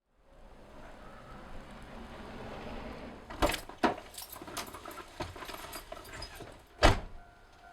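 Keys jangling with a string of sharp clicks and knocks, the loudest a single knock near the end, followed by a steady electronic chime tone.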